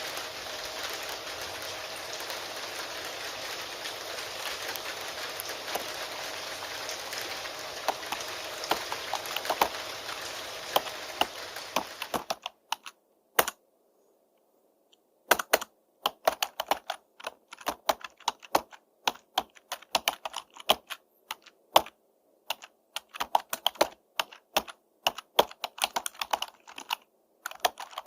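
Steady rain that cuts off abruptly about twelve seconds in, with computer keyboard typing joining near the end of the rain and then continuing alone in irregular runs of keystrokes with short pauses.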